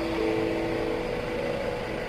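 Helicopter running during takeoff: a steady, even engine noise with a few faint held tones above it.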